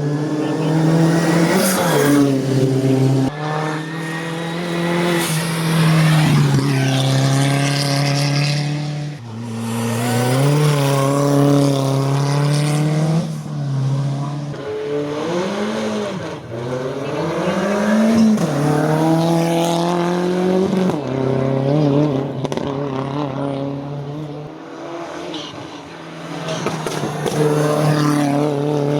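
Race car engine revving hard on a hill climb: the engine note climbs, drops sharply on each gear change, and rises and falls as the driver lifts and blips for corners.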